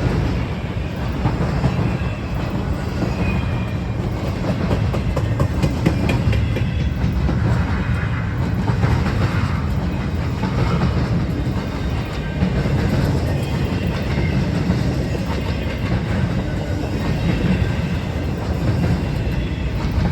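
A train rolling past at close range: a steady, loud rumble of railcars with the clatter of wheels on the rails.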